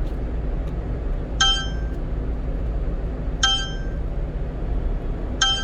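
Car navigation warning chime ringing three times, about two seconds apart, sounding as the truck nears a speed-enforcement camera zone. Under it runs the steady low drone of the 1-ton truck's cabin on the road.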